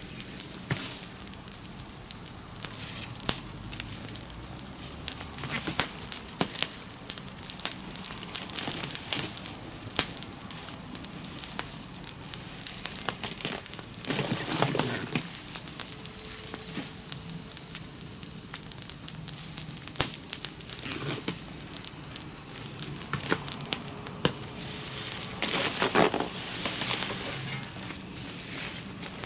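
Wood campfire burning, crackling with frequent sharp pops and a steady hiss, with two louder spells of crackling about halfway through and near the end.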